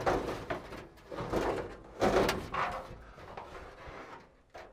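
Parts being shifted and handled: irregular scrapes, rubs and knocks, loudest at the start and again about two seconds in.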